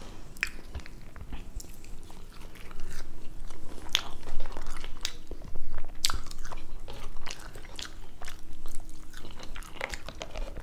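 A person chewing and biting French fries dipped in ketchup, close to the microphone, with many short, sharp mouth clicks.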